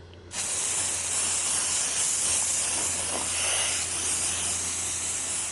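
Aerosol can of metallic gold spray paint spraying in one continuous steady hiss, coating metal strap clips. It starts just after the beginning and stops abruptly at the end.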